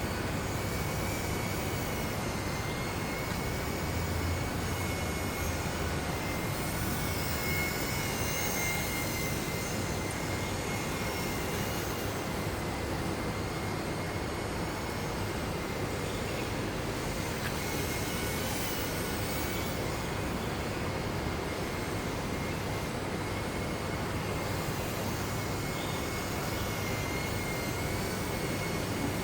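Small electric RC airplane's motor whining steadily with a slight waver in pitch, under heavy wind noise on the microphone.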